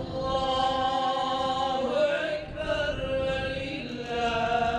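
A man's voice chanting a religious recitation in long, held, slightly wavering notes, each lasting a second or two, in the manner of an imam's chant at an Islamic funeral.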